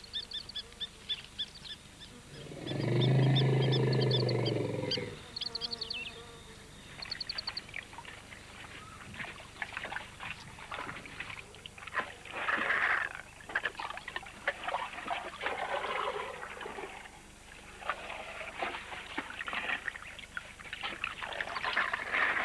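Elephants at water: a loud, low elephant rumble about three seconds in, then a long stretch of splashing and gurgling water as they drink. Small birds twitter at the start.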